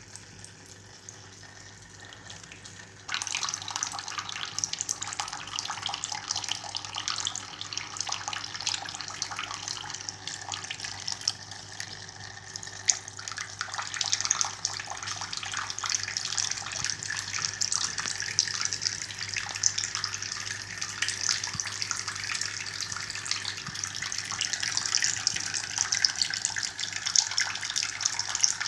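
Fountain water splashing as a stream pours down from the decorative bird figure into the basin below. It starts abruptly about three seconds in and then runs steadily.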